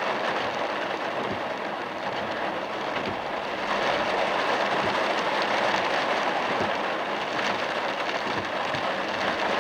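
Heavy rain falling on a moving car, with tyres hissing through water on the road, heard from inside the car. It is a steady wash of noise that grows a little louder about three and a half seconds in.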